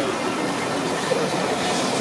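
Railway train running along the track, a steady rumble and rail noise.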